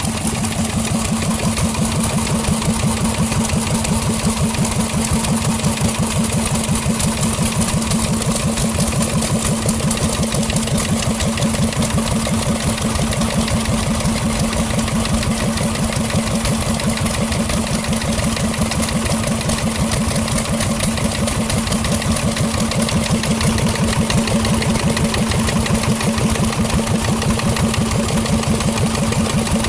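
Vintage engine running steadily at an even speed, with fast regular firing pulses and a steady hum.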